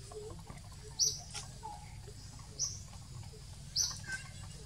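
A bird calling: short, high chirps repeated at a steady pace of about one every second and a half, over soft rustling clicks and a low steady rumble.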